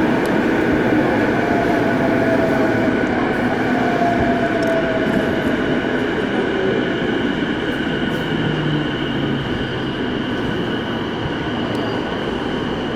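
Keiyo Line electric commuter train running on the rails, heard from inside the carriage: a steady rumble of wheels and running gear with a faint steady high whine, gradually getting a little quieter.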